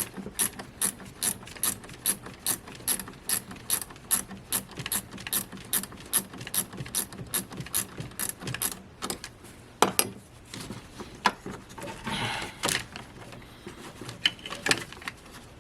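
Hand ratchet wrench clicking in a steady run, about four clicks a second, as fasteners are loosened; after about nine seconds the run stops, leaving a few scattered clicks and knocks of tools.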